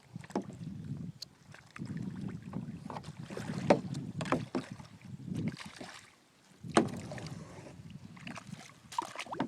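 A small boat being paddled: paddle strokes in the water with scattered knocks and clicks and a low rumble, dropping away briefly a little after the middle.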